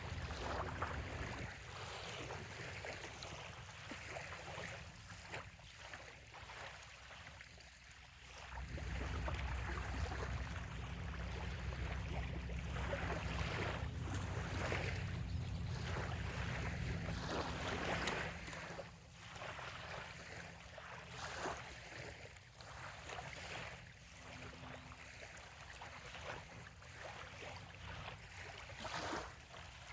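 Small waves lapping and splashing irregularly at a bay shoreline. A low rumble joins in about eight seconds in and fades out about ten seconds later.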